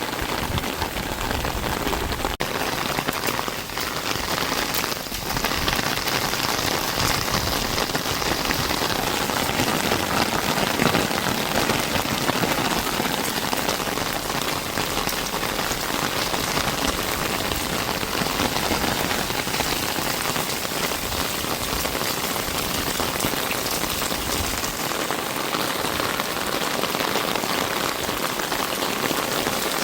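Steady rain falling and pattering on surfaces, an even dense hiss with no let-up.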